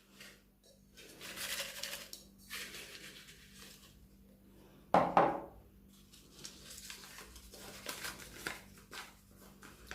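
Small handling noises: soft rustling and light clicks, with one sharp, louder knock about five seconds in.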